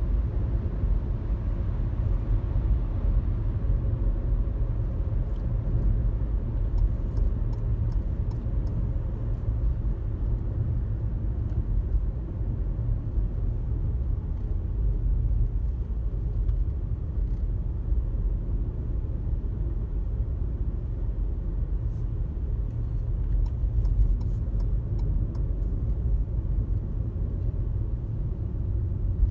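Steady low road and engine rumble inside a car cruising on a highway, with a few faint light ticks.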